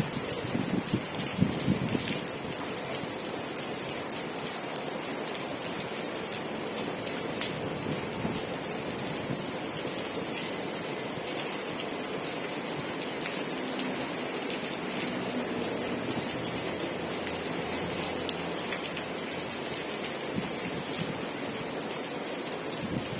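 Steady rain falling, an even hiss with faint scattered drop ticks. A few low rumbles of wind on the microphone come in the first two seconds.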